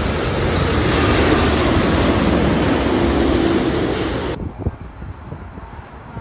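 Jet airliner engines passing close by: a loud, steady rush of engine noise that cuts off abruptly about four seconds in, leaving faint wind on the microphone.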